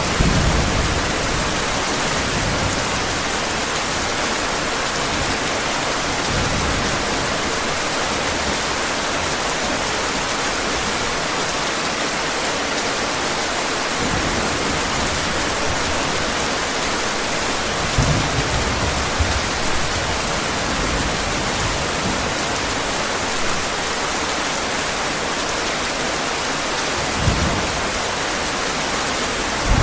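Heavy rain falling steadily, with a few brief low rumbles of thunder, one near the start and others about two-thirds through and near the end.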